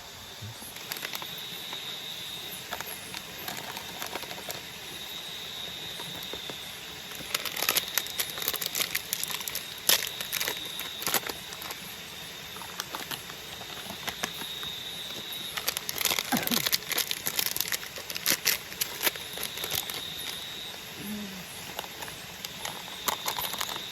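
Bursts of plastic crinkling and rustling, in three clusters about a third of the way in, two-thirds of the way in and near the end. Under them runs a steady high-pitched chorus of nocturnal tropical forest insects.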